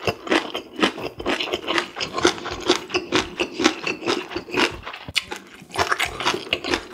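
Close-miked chewing of a mouthful of food, wet smacking and squelching strokes about three a second, with a brief pause near the end.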